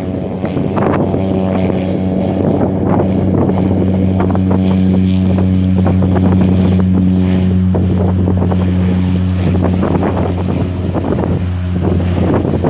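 Aircraft engines running with a steady low drone, under heavy wind buffeting the microphone.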